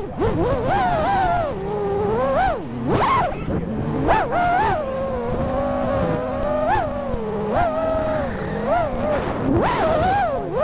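FPV quadcopter's brushless motors and propellers whining, the pitch sweeping up and down over and over as the throttle is worked.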